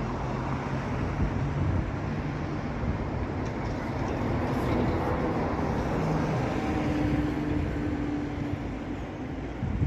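Steady low rumble of vehicle traffic, with a faint engine hum that rises and fades.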